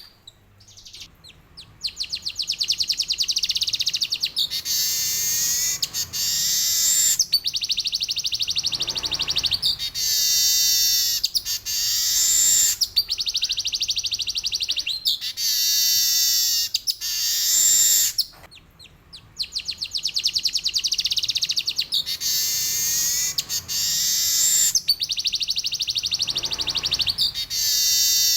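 Male weaver bird (manyar) singing a long run of fast, buzzy, high-pitched trills, phrase after phrase with short breaks between them. There is a brief pause about a second in and another around eighteen seconds in.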